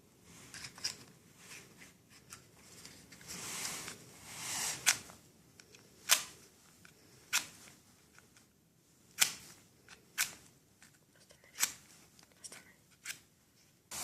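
Matches being handled and struck on a matchbox: a longer scratchy rasp of a strike about three to five seconds in, and a string of sharp separate clicks and scrapes about one to one and a half seconds apart.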